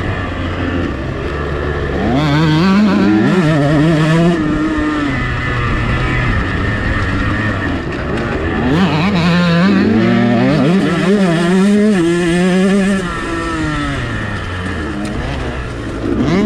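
2022 KTM 125 SX single-cylinder two-stroke engine under hard riding, the throttle opening and closing: it revs up sharply about two seconds in and again around nine seconds, drops back in between, and picks up again at the very end.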